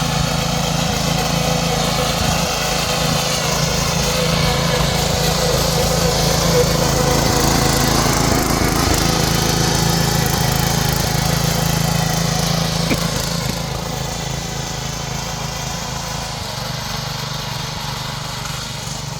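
Small 7 hp gasoline engine of a mini power tiller running steadily, the sound easing off somewhat in the last few seconds.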